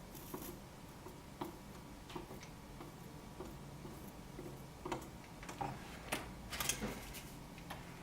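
Scattered light clicks and taps of small hand tools working on a refrigerator control board, with a cluster of sharper clicks about six to seven seconds in, over a faint steady low hum.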